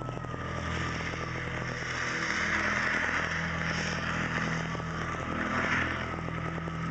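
Soundtrack of an outdoor light-and-sound show played over loudspeakers: a low sustained drone under a rushing, engine-like noise that swells through the middle and eases off near the end.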